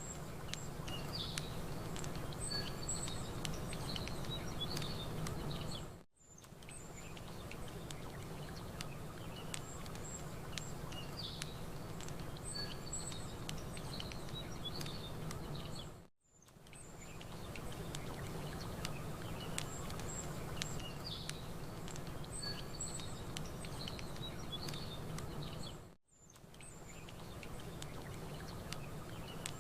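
Campfire crackling in short sharp pops over a steady low wash, with small birds chirping now and then. The whole bed dips suddenly to near silence and fades back in three times, about ten seconds apart, as the ambience loop restarts.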